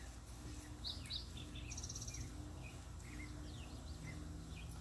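Quiet outdoor ambience: faint scattered bird chirps over a low steady background hum, with a brief fast run of high ticks a little before the middle.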